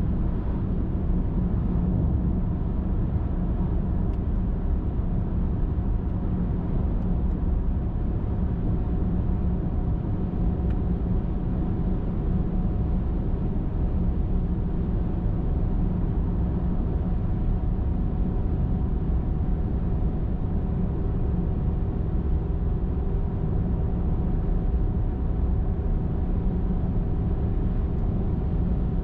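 A car driving at a steady highway speed: an even rumble of tyres on the road with a low, steady engine and drivetrain hum.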